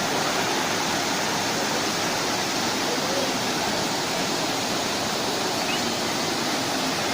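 Mountain waterfall pouring: a steady, unbroken rush of falling water.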